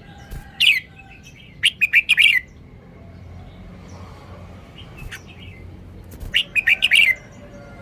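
Red-whiskered bulbul singing two short phrases of quick, bubbling notes: one around the first two seconds, the other near the end.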